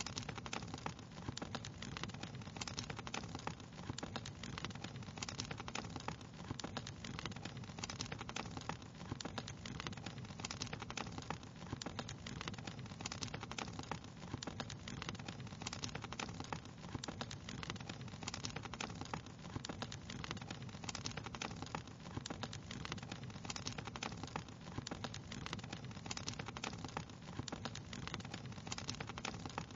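Wood fire crackling steadily, with a dense, continuous stream of small pops and snaps over a soft hiss.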